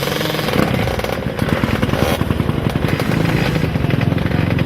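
Racing ATV engines running and revving, with a fast rasping pulse to their note. A closer engine comes up louder and steadier about three seconds in.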